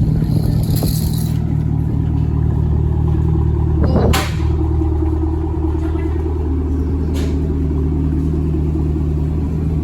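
Cadillac CTS-V's supercharged V8 running at a steady idle through a muffler-delete exhaust. It builds a little in level, and a sharp pop about four seconds in is followed by a slight drop.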